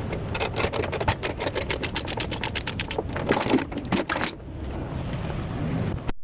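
Rapid ratchet clicking, about eight clicks a second for roughly four seconds, over a steady low engine rumble. The sound cuts off abruptly near the end.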